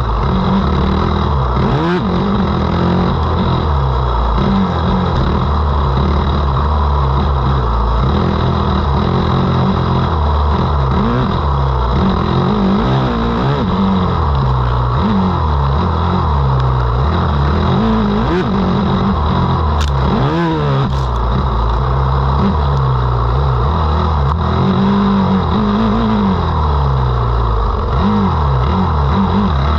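Motocross bike engine racing, revving up and falling back over and over as the throttle opens and closes and gears change. A couple of sharp clacks come about twenty seconds in.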